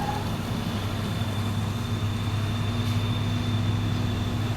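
Heavy diesel truck engine labouring steadily at low speed as a loaded truck crawls uphill, a low even drone with a thin high whine over it.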